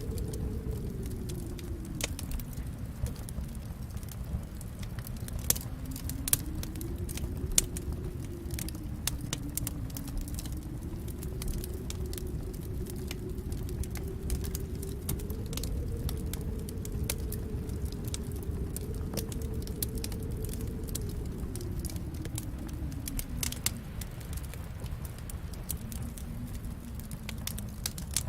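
Wood fire crackling, with frequent sharp pops over the low rumble of the flames. A faint low tone drifts slowly up and down in pitch beneath it.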